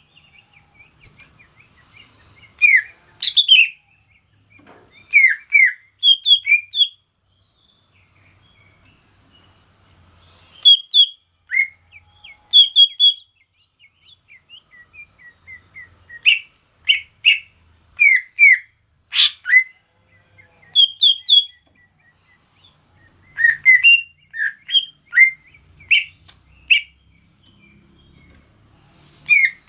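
Cucak ijo (greater green leafbird) singing: short, sharp whistled notes that slide down, in quick clusters of two to four, repeated every second or two. A steady high hiss runs behind them.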